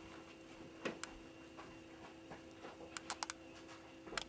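Quiet room tone with a faint steady hum, broken by a few light clicks and taps: one about a second in, a quick cluster of three or four around three seconds, and one more near the end.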